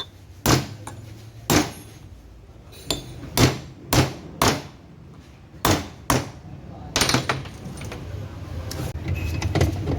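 Hammer blows, about ten sharp irregular strikes spaced half a second to a second and a half apart, over a steady low hum.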